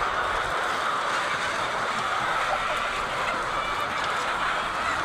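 Steady din of a large flock of white layer hens, many birds clucking and calling at once.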